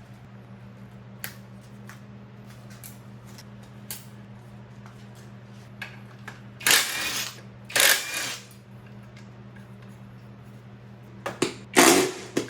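Scattered light clicks and taps of tools on metal, then two short bursts of a handheld power tool, one about seven seconds in and one about eight seconds in, while bolts are worked on during motorcycle disassembly. A steady low hum runs underneath.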